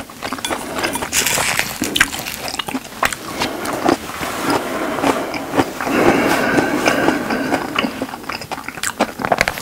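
Close-miked chewing: wet mouth sounds with sharp clicks and crunches in the first seconds, growing denser and louder about six seconds in.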